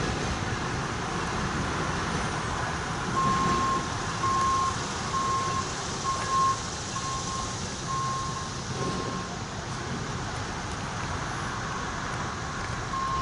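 Steady heavy mechanical rumble with an electronic warning beep repeating about once a second, starting about three seconds in and fading out a little past the middle.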